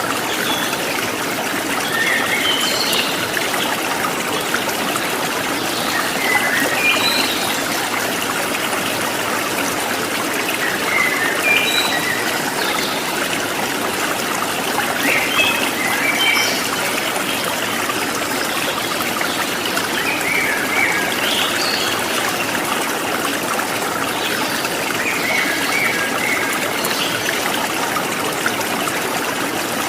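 Running water from a stream trickling steadily, with short bird chirps every few seconds.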